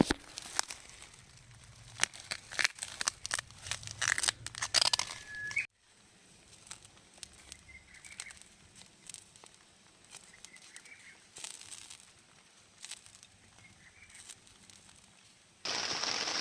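Irregular clicks and crackles for the first few seconds, then a quiet stretch with a few faint bird chirps. Near the end a steady rain shower starts abruptly.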